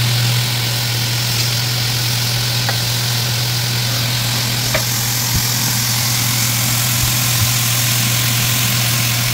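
Sugar-coated pineapple slices sizzling steadily on a hot buttered cast-iron grill pan, over a constant low hum, with a few faint ticks.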